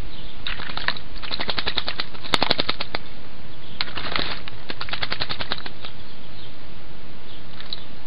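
A young Eurasian blackbird bathing in a shallow bird bath, fluttering its wings in the water in two bursts of quick splashing, each about two seconds long, over a steady background hiss.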